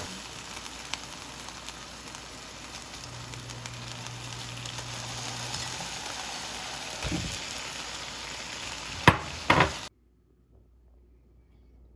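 Food frying and sizzling in a pan, a steady hiss with a dull thump partway through and a few sharp knocks about nine seconds in. The sizzle cuts off abruptly about ten seconds in.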